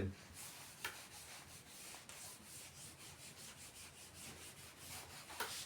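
Faint scratching of a pen writing in many quick, short strokes.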